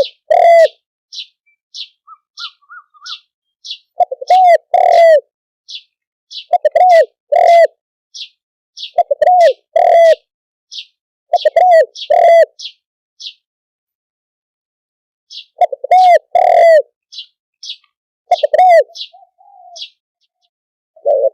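Spotted doves cooing in repeated phrases. Each phrase has two loud, low coos about half a second apart, and the phrases come every two to two and a half seconds, with a pause of a couple of seconds midway. Short, high chirps tick between the coos.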